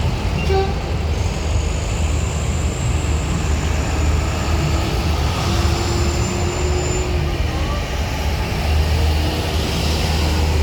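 Heavy vehicle engines running with a steady low rumble, with a faint high whine for several seconds in the middle.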